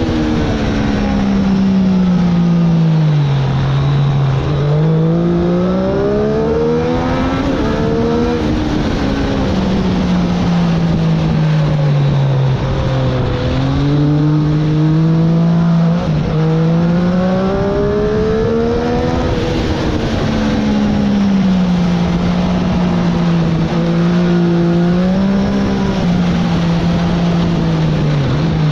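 Triumph Daytona 765's three-cylinder engine heard onboard at track speed, its pitch climbing under acceleration and dropping in steps as it is shifted down for corners, several times over. A constant rush of wind noise runs underneath.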